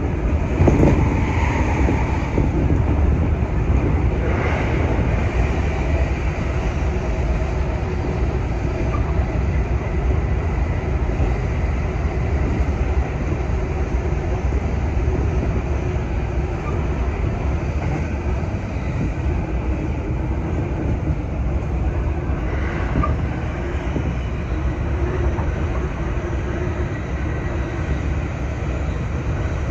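Running noise of a JR West 225 series electric train heard from inside the car: a steady low rumble of wheels on rail. A few sharper knocks come near the start, again about 4 seconds in, and once more about 23 seconds in.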